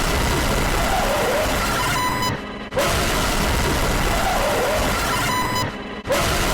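A loud, harsh wall of noise that repeats as a loop about every three and a half seconds, with a short drop in level between repeats, twice.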